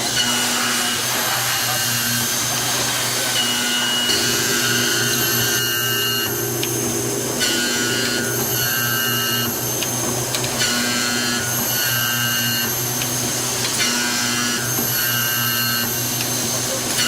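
CM-106 automatic key milling machine running: a steady motor hum under whining tones that start and stop every second or two as the machine moves through its cutting cycle.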